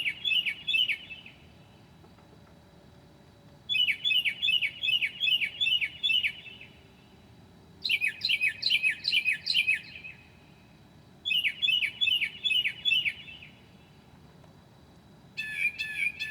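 Northern mockingbird singing: phrases of fast, repeated notes that sweep down in pitch, about four notes a second, each phrase a couple of seconds long with short pauses between. A new phrase of steadier notes starts near the end.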